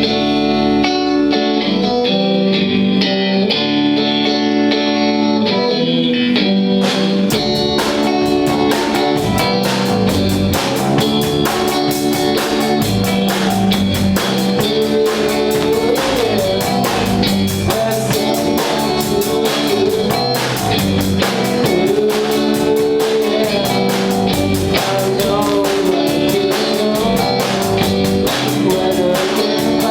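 Live garage rock band playing: a guitar riff alone at first, then the drum kit comes in about seven seconds in and the full band plays on.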